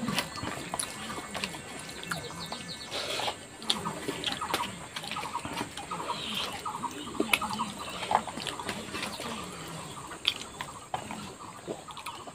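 Close-up wet chewing and lip-smacking of a person eating rice and chicken curry by hand, with many small scattered clicks.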